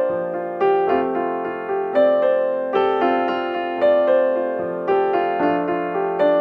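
Background music: a piano playing a slow melody over chords, each note struck and fading before the next, about one to two notes a second.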